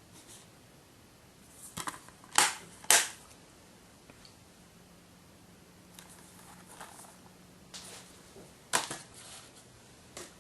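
Plastic disc case being handled and opened, with a few sharp clicks and snaps. The loudest come about two and a half and three seconds in and again near nine seconds, with softer handling noises between.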